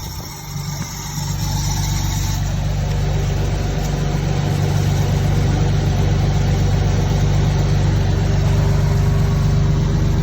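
Toyota Supra's 3-litre twin-turbo straight-six engine idling, a little louder over the first couple of seconds, then steady, after six years laid up.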